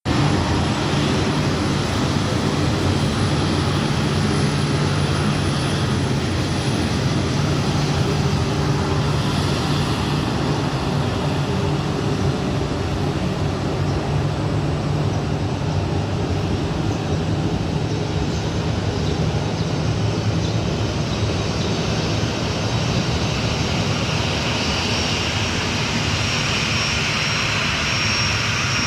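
Aircraft engines running steadily: a constant low hum with a thin high whine over it, getting brighter and higher near the end.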